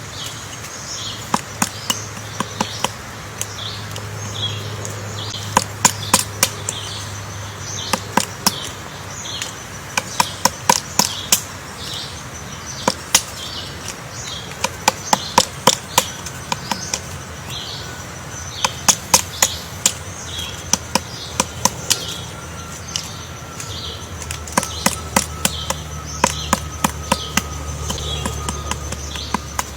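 Common flameback woodpecker chiselling out a nest hole in wood: bouts of sharp pecking strikes, several quick blows in each, coming every second or two with short pauses. Behind it, a repeated high chirping and a thin steady high whine.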